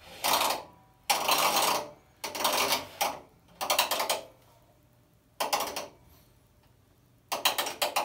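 Short bursts of rasping, rattling mechanical noise, about six of them with pauses between, ending in a quick run of ratchet-like clicks.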